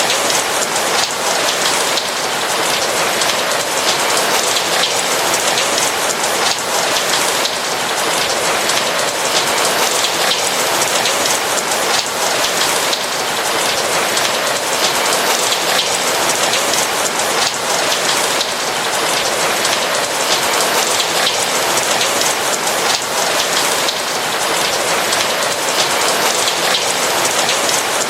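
Steady rain falling, a dense patter of raindrops.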